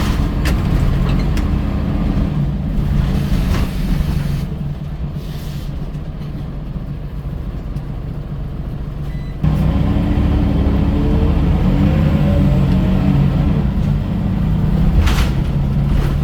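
Scania L94UB bus's diesel engine running, quieter for a few seconds in the middle, then pulling away again with a rising whine as it accelerates. A short hiss of air comes near the end.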